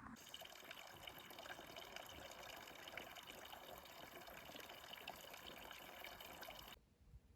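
Faint running water, a steady splashing trickle that starts and cuts off abruptly.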